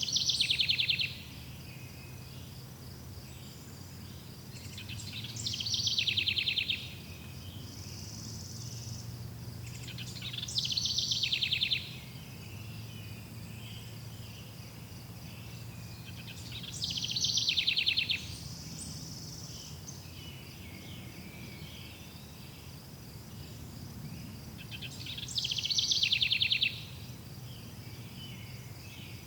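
A songbird singing a short, rapid trilled phrase five times, about every five to six seconds, over a steady chorus of crickets.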